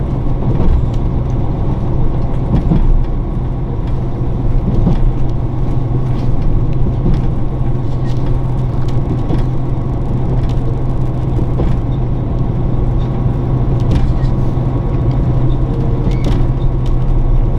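Inside a diesel limited-express train running at speed: a steady low engine drone over continuous rolling wheel-and-rail noise, with a few faint clicks.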